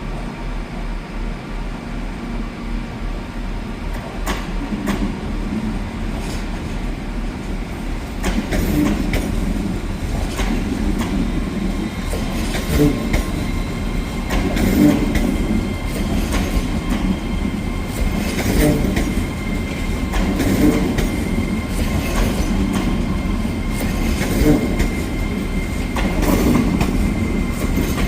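A train rolling slowly past, its wheels knocking over rail joints in clusters about every two seconds, over a steady running rumble and a faint high whine.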